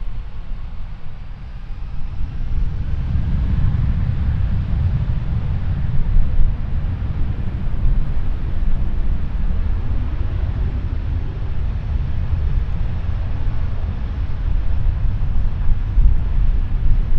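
Jet airliner engines making a low, steady rumble that builds about two seconds in and then holds.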